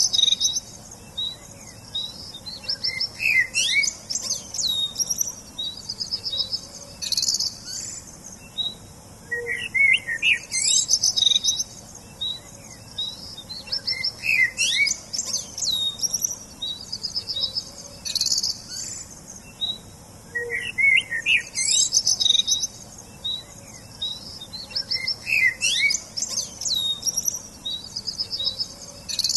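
Songbirds singing: a busy mix of quick chirps, fast trills and sliding whistles, mostly high-pitched, over a faint steady hiss. The same stretch of song comes round again about every ten seconds, as in a looped recording.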